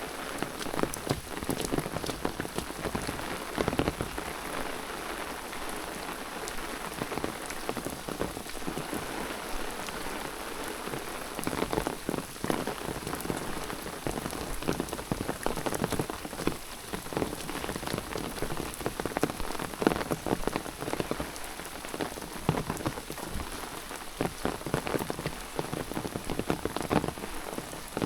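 Steady rain falling, with many irregular drops ticking close by.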